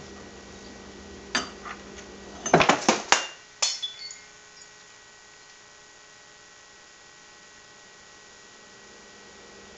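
Household objects clinking and knocking as a parrot rummages destructively through kitchen cabinets and drawers: a sharp knock about a second and a half in, a quick clatter of hits about two and a half seconds in (the loudest part), and one more knock just after. Then only a faint steady hum.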